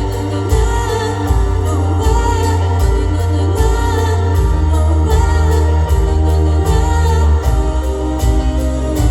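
A song sung over instrumental accompaniment with heavy bass and a steady beat.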